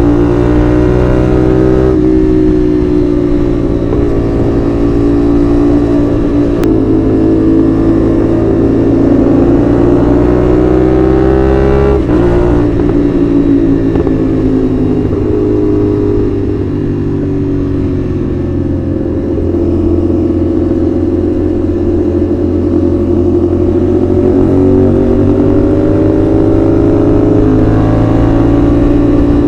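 CFMOTO 450SR's 270-degree-crank parallel-twin engine under way, its pitch climbing with acceleration and dropping back at each gear change, several times over.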